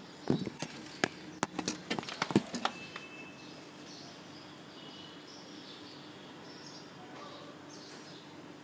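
Birds chirping faintly over a steady background hiss. Early on comes a quick run of a dozen or so sharp clicks and knocks, louder than anything else, lasting about two and a half seconds.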